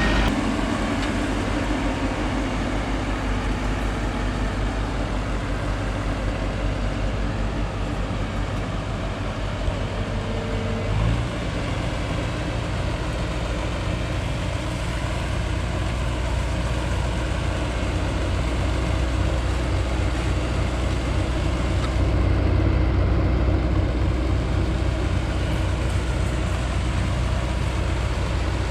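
Mazzotti self-propelled high-clearance sprayer's diesel engine running steadily while it works. Its engine note changes about eleven seconds in.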